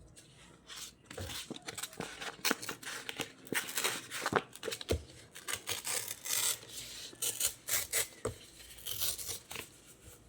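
Paper and cardstock being worked by hand: a run of irregular rustling and scraping strokes that starts about a second in and stops shortly before the end.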